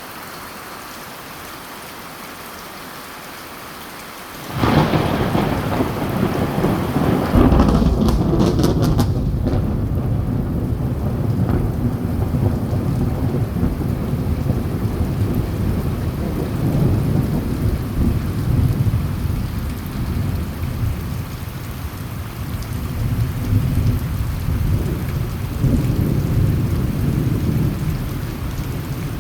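Steady rain, then about four and a half seconds in a thunderclap breaks out and rolls on as a long low rumble, with sharp cracks a few seconds later, easing off near the end.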